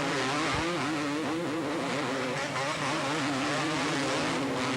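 Two-stroke motocross bike engines racing, their pitch rising and falling steadily as the riders work the throttles.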